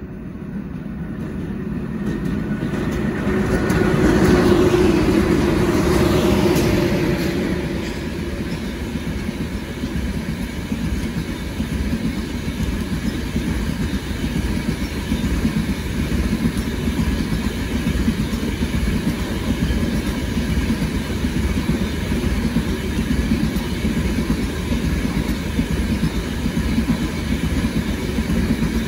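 Steady vehicle rumble, building to its loudest about four to six seconds in and then running on evenly.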